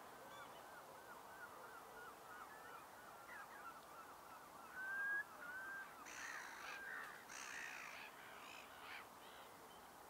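Birds calling over estuary mudflats: a quick run of short chirping notes, one clear whistle about five seconds in, then several hoarse, noisy calls from about six to nine seconds.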